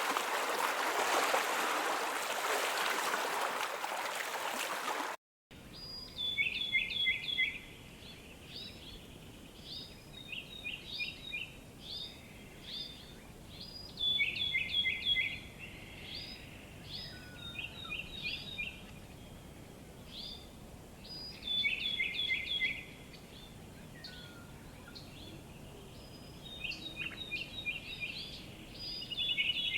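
Rushing water for about five seconds, then a sudden cut to a small songbird singing: short phrases of quick high notes, each note falling in pitch, repeated every few seconds.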